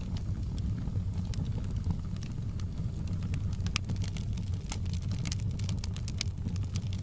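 Wood fire burning in a fireplace: a steady low rumble of the flames with sharp, irregular crackles and pops from the burning logs, coming thickest a little past the middle.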